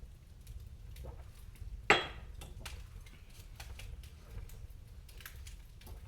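Wood fire crackling with small scattered snaps over a low steady rumble, with one sharp, loud crack about two seconds in that rings briefly.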